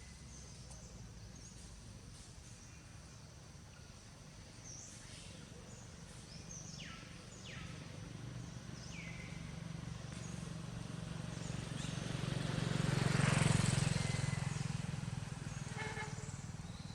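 A motor vehicle passing by: a low engine hum grows louder to a peak about 13 seconds in, then fades. Short, high, falling calls sound now and then over it.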